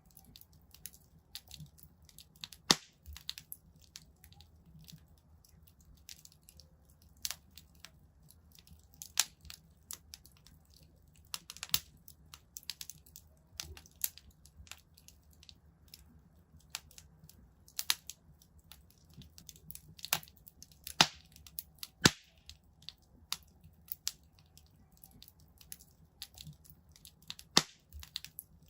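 Wood fire crackling in a fireplace: irregular sharp snaps and pops over a faint low rumble, with a few much louder pops scattered through.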